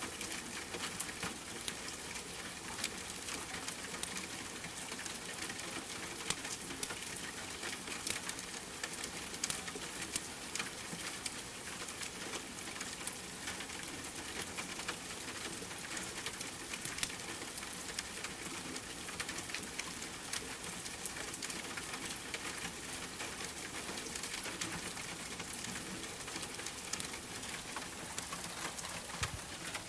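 Steady rain pattering, mixed with frequent small crackles and ticks from a wood fire in a fireplace.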